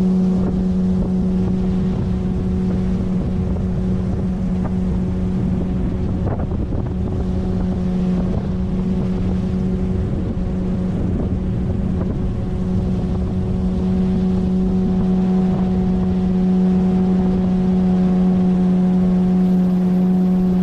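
9.8 hp outboard motor on a PVC inflatable boat running at a steady speed, one even engine note throughout.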